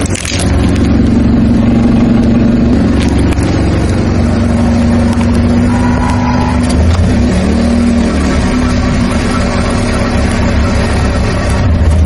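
Car engine running at close range: a steady low hum and rumble, its pitch shifting slightly about halfway through.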